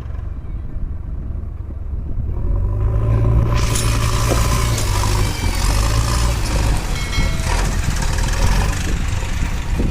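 Mahindra 595 DI tractor's four-cylinder diesel engine running, a steady low drone. About three seconds in it gets louder and a harsher, hissing edge joins it.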